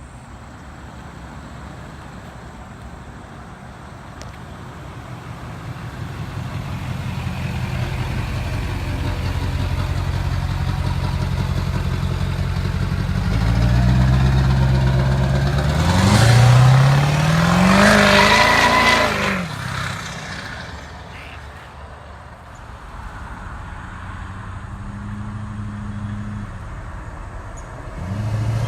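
Duramax diesel pickup truck accelerating hard, engine pitch climbing through two gears with a loud rush at its peak, then dropping in pitch and fading as it moves away. Near the end it starts climbing again under another acceleration.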